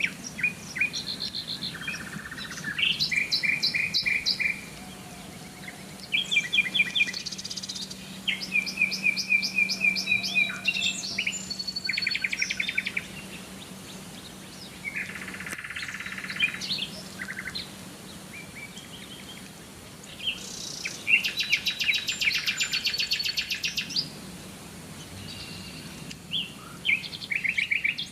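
Several songbirds singing: fast trills and runs of repeated chirps in short phrases, some overlapping, with brief pauses between. A faint steady low hum lies underneath.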